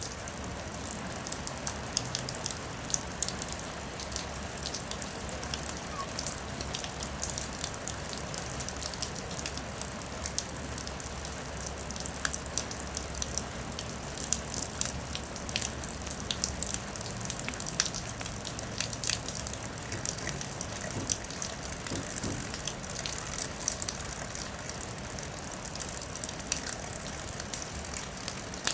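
Steady rain falling, with many small sharp drop ticks over an even hiss.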